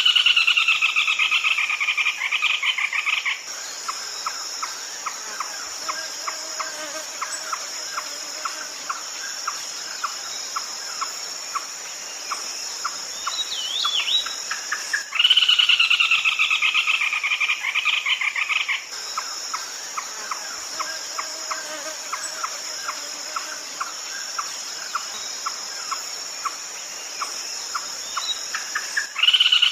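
Red-legged crake calling: a loud, fast run of notes that falls in pitch over about three and a half seconds, heard at the start, again about 15 seconds in and near the end. Between the runs there is a steady ticking of about three notes a second, over a constant high insect drone.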